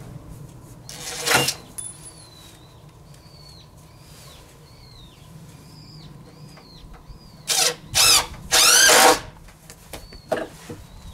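Power drill run in short trigger bursts: two brief pulses, then a longer run of about half a second that whirs up and back down, as for driving screws into scrap-wood desk boards. Small bird chirps repeat in the background before it.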